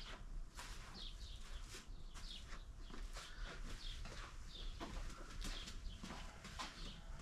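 Birds chirping faintly: many short calls, several sliding down in pitch, repeating irregularly.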